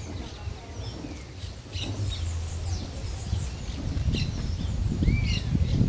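Birds chirping and calling: many short high chirps and whistled notes, some arching up and down, over a low rumble that gets louder near the end.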